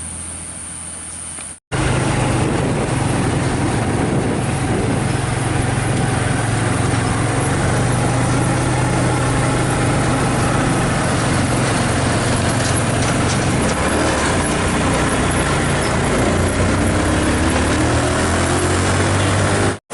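Heavy truck engine running loud and steady under load, with its revs rising near the end.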